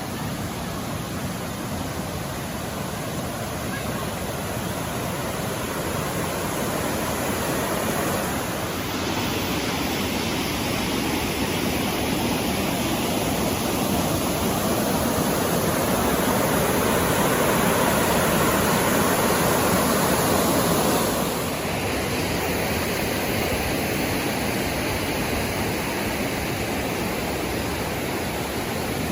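Mountain valley stream rushing over rocks: a steady water noise that swells in the middle and drops back abruptly about two-thirds of the way through.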